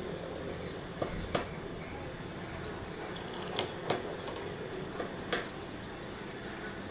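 Steady background hiss with a thin, steady high-pitched tone, broken by about six short, light clicks or taps scattered through.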